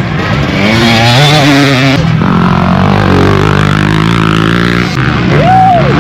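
Off-road motorcycle engines running steadily, with a short rise and fall in pitch about five and a half seconds in.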